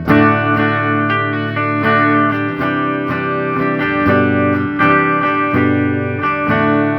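Electric guitar played through an Orange Super Crush 100 solid-state amp: a run of picked chords and notes, each left to ring, in a fairly clean tone.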